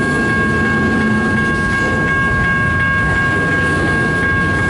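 CN double-stack intermodal freight train's cars rolling slowly past, a dense rumble with the wheels clicking over the rail joints at an even pace, under a steady high tone.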